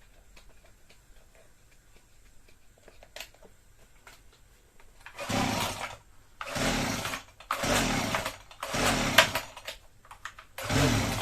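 Husqvarna 122HD45 hedge trimmer's small two-stroke engine being pull-started: about five seconds in, a run of quick recoil-starter pulls begins, each a burst of about a second as the engine cranks over. These are start attempts after the loose cylinder base bolts, which caused an air leak, were tightened.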